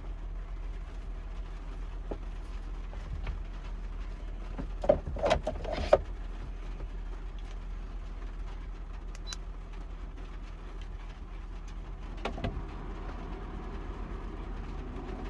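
Vehicle engine idling steadily, heard from inside the cabin, with a few knocks and clicks about five seconds in and again near the end.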